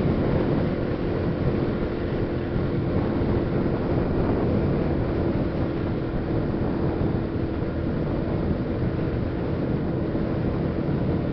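Steady drone of a vehicle driving at a constant speed on a road: engine and tyre noise with a steady hum and some wind noise on the microphone.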